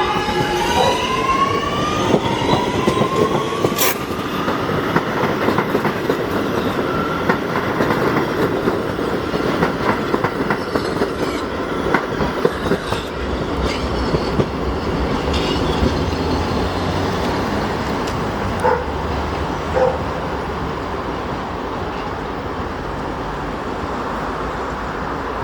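Staten Island Railway electric subway train pulling through the station, its traction motors whining and rising in pitch as it accelerates over the first several seconds. Wheels click over rail joints above a steady rumble.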